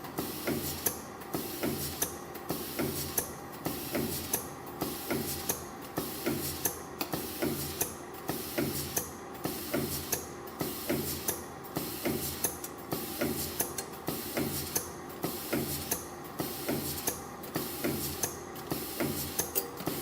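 A CNC flat-wire ring and wave spring machine running, forming 0.8 × 2.0 mm flat wire into piston rings. It goes in a steady cycle of clicks and mechanical noise that repeats about once a second.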